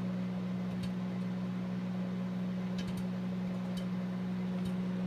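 Microwave oven running with a steady hum while popcorn kernels pop now and then inside a glass microwave popcorn popper, about five sharp pops spread across the few seconds.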